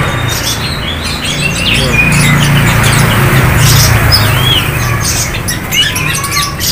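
Many caged songbirds chirping and whistling at once, short overlapping calls scattered throughout, over a steady background hum.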